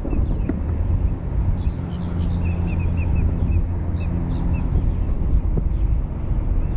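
Small birds chirping, with a quick run of chirps about two to three seconds in, over a steady low drone and rumble.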